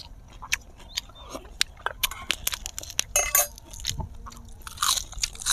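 People chewing and crunching food close to clip-on microphones, with scattered sharp clicks and short crackly crunches, the biggest cluster about three seconds in.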